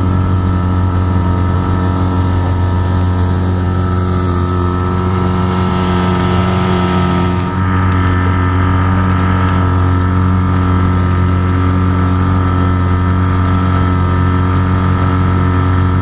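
A small sailboat's outboard motor running steadily under way, a loud drone holding one pitch, with a brief dip about seven and a half seconds in.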